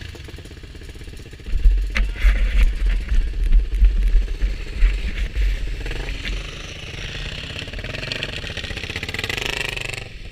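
Motorcycle engine running on the move. A loud, irregular low rumble sets in about a second and a half in and lasts some four seconds before the engine sound steadies.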